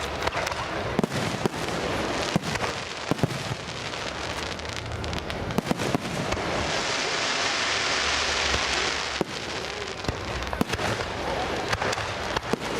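Fireworks display: a steady run of sharp bangs and pops, with a dense hissing crackle lasting about three seconds in the middle.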